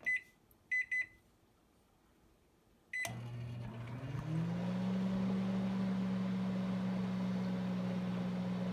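Microwave oven keypad beeping as the 3-minute time is entered: a single beep, a quick pair, then one more. About three seconds in, the microwave starts running with a steady low hum, one tone rising in pitch for a moment as it comes up to speed, then holding steady.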